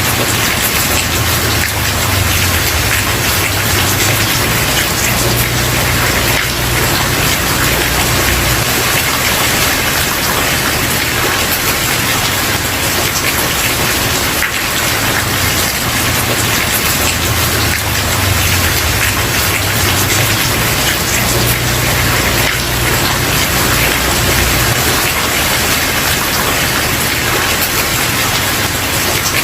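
Steady heavy rain falling on a wooden porch, a dense even patter with a low rumble underneath that swells and fades.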